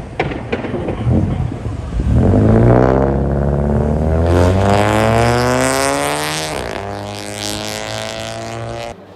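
Car engine revving hard: the engine note climbs steadily for about four seconds, drops sharply, then holds high and slowly falls before cutting off suddenly near the end.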